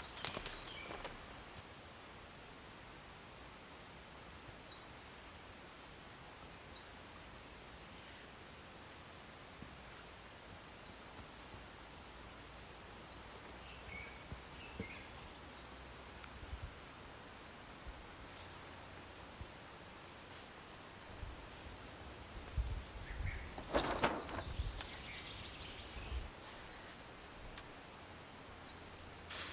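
Birds chirping in woodland: short, high calls repeating every second or so over a faint background. A brief loud burst of noise comes about three-quarters of the way through.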